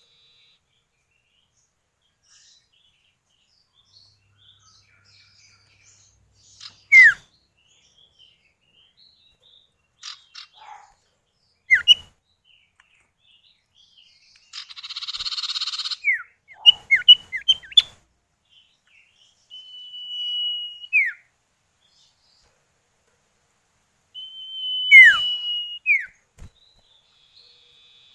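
Common iora (cipoh/sirtu) calls, male and female answering each other: sharp falling whistles, two long level whistles that each drop away at the end, and a buzzy rasping call about halfway through. The calls come in scattered bouts with silent gaps between them.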